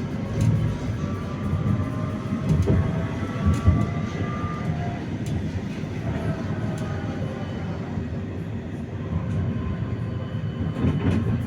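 71-931M Vityaz-M tram under way on the rails: a steady low rumble of wheels and running gear with scattered knocks, and the whine of its IGBT traction drive sliding in pitch as the speed changes.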